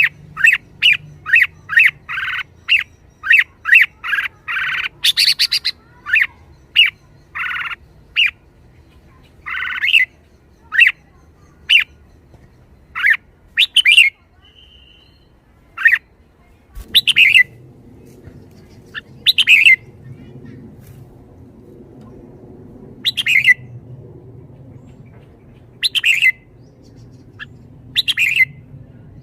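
Red-whiskered bulbul giving short, sharp chattering calls, fast and close together at first, then single calls every couple of seconds. A low background rumble comes in about two-thirds of the way through.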